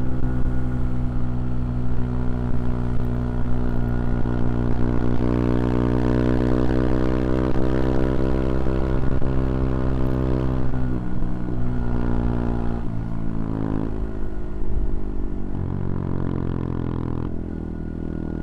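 CFMoto Papio XO-1's small single-cylinder engine and exhaust running under way at steady revs. In the second half the revs drop in a few steps.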